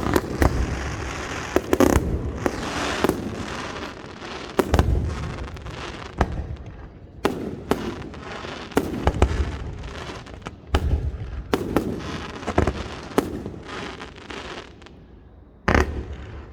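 Fireworks display: a rapid run of shell bursts, bangs coming every half-second or so over steady crackling. The bursts thin out near the end, with one last loud bang shortly before it closes.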